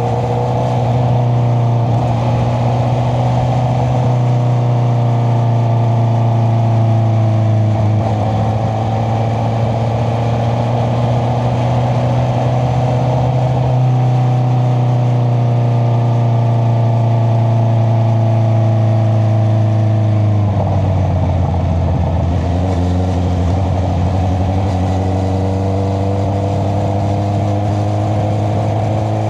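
Honda CBR650R's inline-four engine through an Akrapovic exhaust, running steadily at a cruise. About two-thirds through the pitch drops, then holds steady again.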